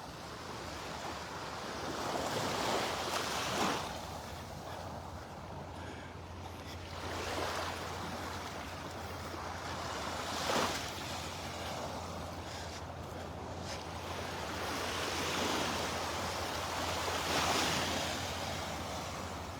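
Surf from the Gulf of Mexico breaking and washing up the beach, swelling and fading every three to four seconds.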